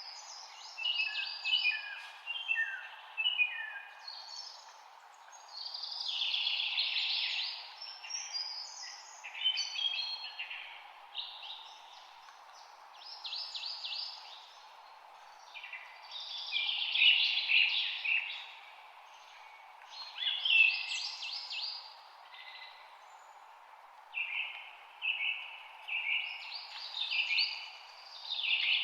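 A songbird singing: quick chirped and trilled phrases of a second or two, repeated every few seconds with short pauses between, over a steady background hiss.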